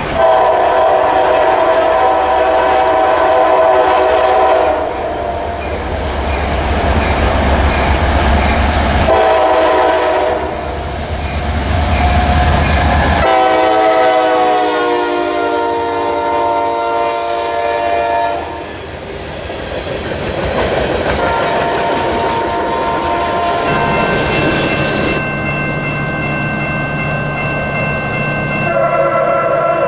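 Locomotive horn sounding a series of blasts, one long blast about halfway through falling in pitch as the train passes, over the deep rumble of the diesel engine early on.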